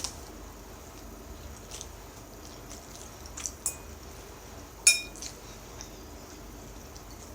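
Eating utensil clinking against a bowl a few times, the loudest clink about five seconds in with a short ring.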